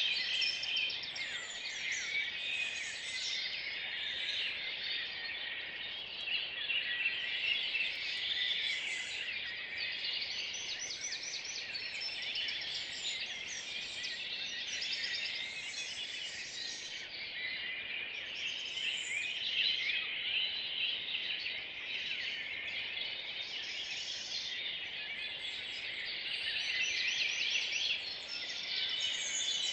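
Early-morning chorus of many songbirds singing at once, with dense overlapping song phrases and high, rapid trills.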